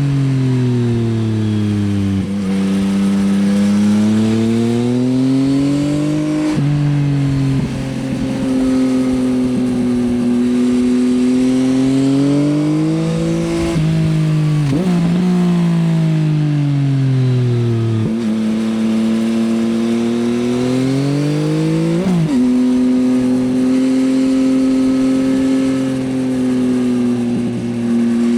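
2024 Yamaha XSR900's inline three-cylinder engine through an Akrapovič Racing Line exhaust, under way: the revs rise and fall smoothly as it accelerates and slows, with three sudden jumps in pitch at gear changes, roughly every seven to eight seconds.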